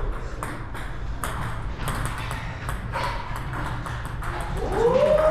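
Table tennis ball clicking off paddles and bouncing on the table in a rally, a quick, irregular run of sharp clicks, with a voice near the end.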